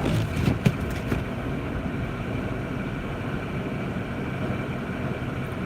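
Steady road and engine noise inside the cabin of a Jeep Grand Cherokee driving through snow, with a couple of short clicks in the first second.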